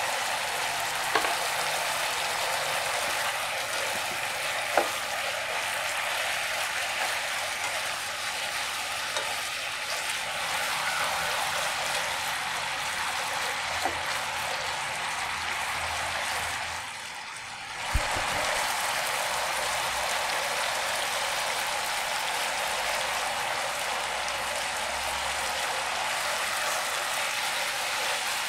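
Sauce-coated pork slices sizzling in a frying pan with a steady hiss, broken by a few sharp clicks. The sizzle drops away briefly about two-thirds through, then returns with a click.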